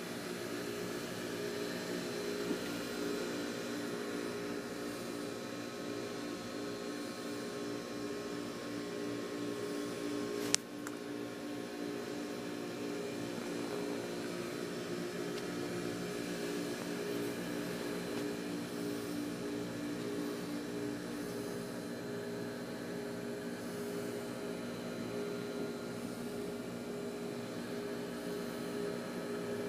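Machinery running steadily in the engine room of a 70-foot Ocean cockpit motor yacht: a constant hum made of several steady tones. There is one sharp click about ten and a half seconds in.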